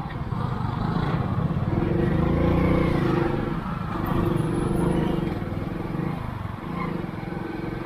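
Motorcycle engine running at low revs, with a steady pitched hum that swells about two seconds in and eases off toward the end.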